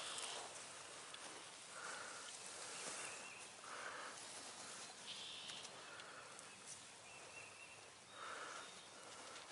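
Bird calls repeated about once every two seconds, with faint higher chirps of small birds between them.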